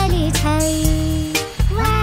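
Upbeat Hindi children's song: a singer holds long notes over a steady drum beat and bass.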